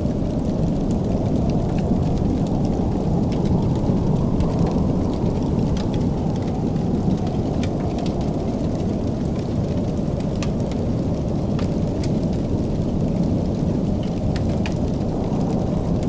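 Wood fire crackling, with scattered sharp pops and snaps over a steady low roar.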